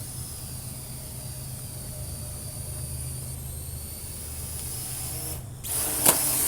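Parrot AR.Drone 2.0 quadcopter's motors and propellers whirring, a faint high whine with a steady hiss. Near the end the sound cuts out briefly, then comes back louder with a sharp click.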